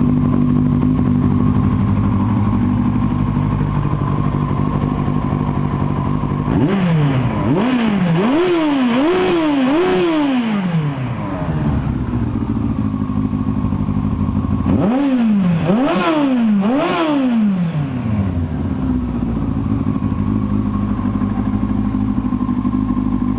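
2001 Yamaha YZF-R1's 998 cc inline-four engine idling steadily while warming up, twice broken by a run of quick throttle blips, four or five the first time and three the second, each revving up and dropping straight back to idle.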